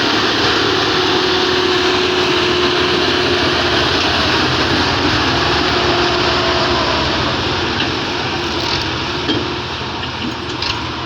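Tractor engine running steadily and loudly, the sound easing off a little near the end, with a few sharp clicks.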